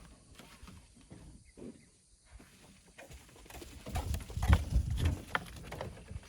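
Scattered knocks and scrapes, with a cluster of heavy thuds and sharp knocks about four seconds in that runs for a second or so.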